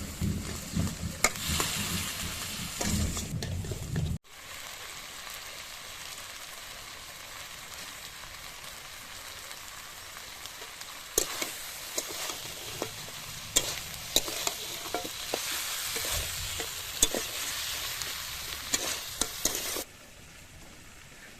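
Chicken curry frying and sizzling in a pot while being stirred, the utensil clicking and scraping against the pot. The sound breaks off abruptly about four seconds in, then returns as a steady sizzle with more clicks of stirring, and drops away near the end.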